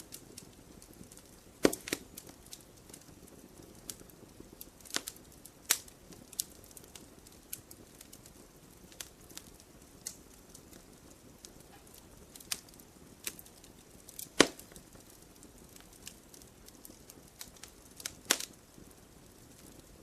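Wood fire in a fireplace crackling: irregular sharp pops and snaps over a low steady hiss, with a few louder pops, the loudest about fourteen seconds in.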